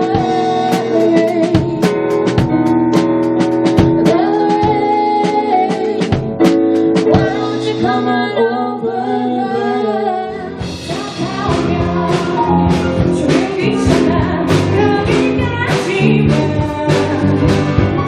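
Live band music: a singer with guitar accompaniment and a regular percussion beat. About ten seconds in, the sound changes to a fuller band with more bass and drums.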